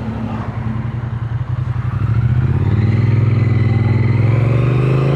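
Triumph Speed Twin 900's 900 cc parallel-twin engine pulling in gear, its pitch rising steadily from about two seconds in as the bike accelerates.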